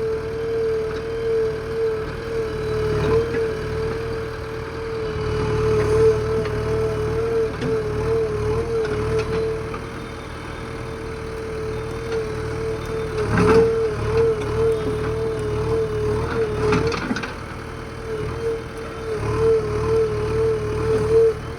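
JCB backhoe loader's diesel engine running, with a steady, slightly wavering whine over it and a few knocks a little past the middle.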